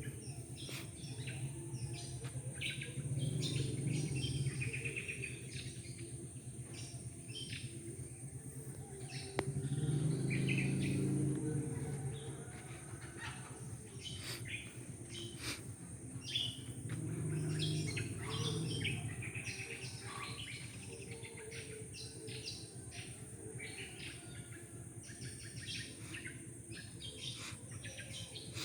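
Many small songbirds chirping and calling over one another in quick, overlapping bursts. A steady thin high whine runs underneath, and a low rumble swells and fades three times.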